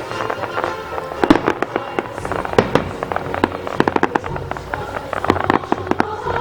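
Aerial fireworks bursting in a rapid, irregular run of sharp bangs and crackles, the loudest about a second in, with music playing underneath.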